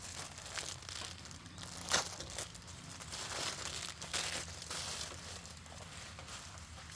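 Grass being cut by hand with a sickle: irregular tearing, rustling strokes of wet grass stems, the sharpest about two seconds in.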